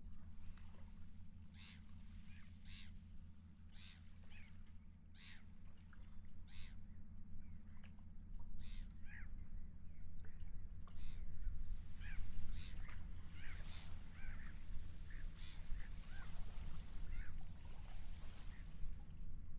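Seagulls calling again and again in short cries, more thickly in the second half, over a steady low rumble.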